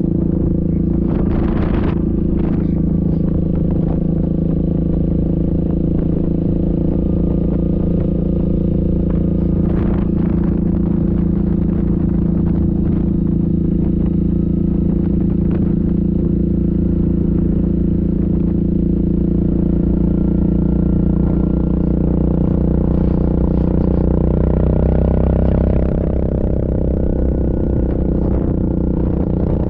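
Yamaha Grizzly ATV's single-cylinder four-stroke engine running steadily under way, with a brief rise in revs about 24 seconds in before it settles again. A few knocks and rattles from the machine are heard early on.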